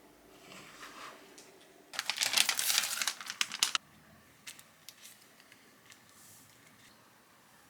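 A dense crinkling crackle lasting just under two seconds, starting about two seconds in, with a softer rustle before it and a few light clicks after.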